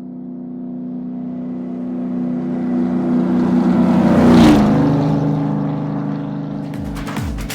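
A motor vehicle's engine passing by: it grows louder, peaks about four and a half seconds in with its pitch dropping as it passes, then fades away. Electronic music with a thumping beat starts near the end.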